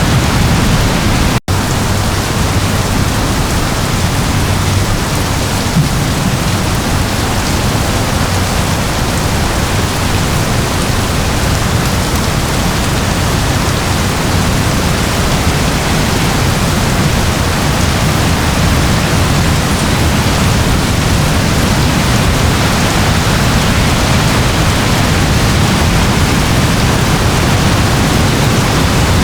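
Steady rain falling, a dense, even hiss with no separate drops standing out. About a second and a half in the sound cuts out for an instant, then resumes unchanged.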